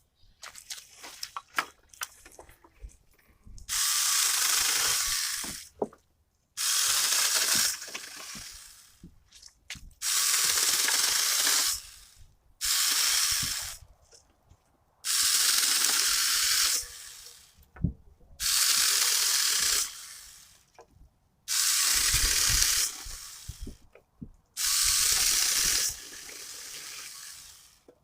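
SAKER 20V mini cordless chainsaw cutting through small poplar and birch trees in short trigger-pulled runs: about eight cuts of one to two seconds each, each starting and stopping abruptly. Light clicks between the cuts.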